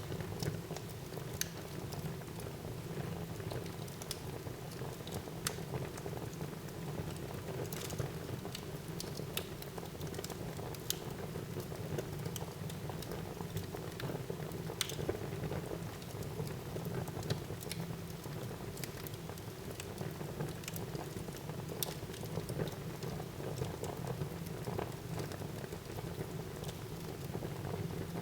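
Fire burning in a fireplace: a steady low rush of flames with scattered sharp crackles and pops, about one every second or so.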